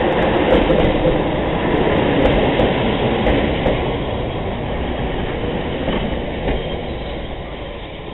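Electric railcar train running past along the platform and slowing, wheels clacking over rail joints, with a few sharp clicks in the first few seconds. The rolling noise grows loud, then fades steadily as the train draws away and slows.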